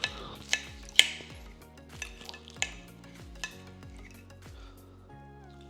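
Crunching as someone bites and chews crispy pork-rind-coated fried chicken skin: a handful of sharp, separate crunches, the loudest about a second in. Soft background music plays underneath.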